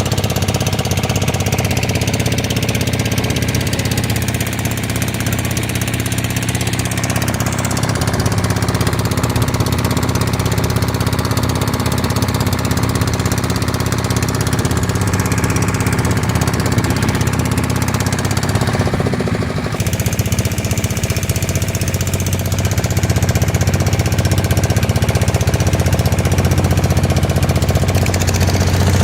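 A motorboat's engine running steadily: a low, even hum made of rapid, regular pulses.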